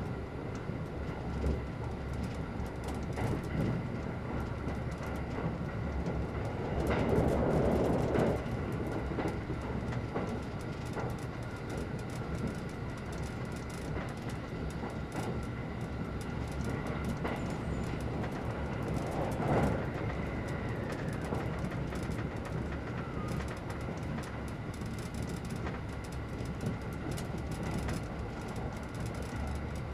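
Running noise heard inside the passenger cabin of a limited-express electric train travelling at speed: a steady rumble with frequent clicks of the wheels over rail joints. It swells louder briefly about seven seconds in, and again about twenty seconds in.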